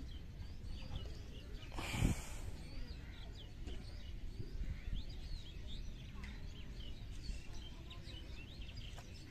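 Small birds chirping over a low outdoor background noise, with a brief loud burst of noise about two seconds in.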